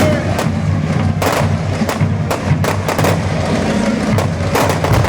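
Fireworks going off in a rapid, irregular series of bangs and crackles, over steady background music.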